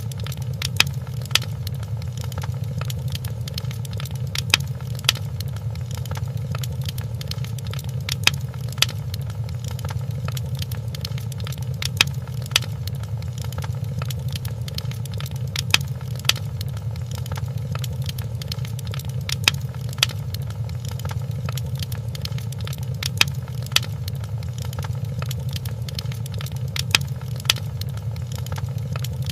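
Wood fire crackling in a fireplace: a steady low rumble of flames with sharp pops, coming in pairs every three to four seconds.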